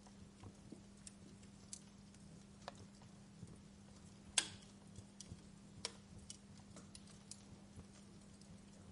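Wood fire crackling: sparse, irregular sharp pops and snaps of varying strength, the loudest about four and a half seconds in, over a faint steady low hum.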